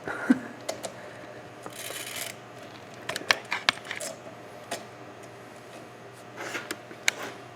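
Scattered light clicks and small metallic taps from tools and equipment being handled at an engine, with two short bursts of hiss about two seconds in and again near the end.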